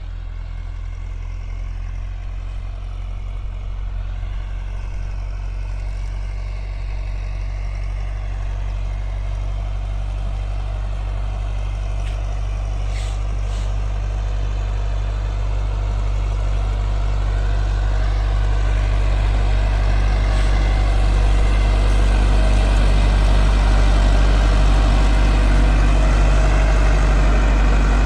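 Massey Ferguson 385 tractor's diesel engine running steadily under load while pulling a disc harrow. It grows gradually louder as it draws nearer.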